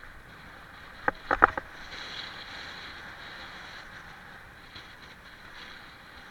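A quick run of four or five sharp clicks or knocks about a second in, over a steady hiss.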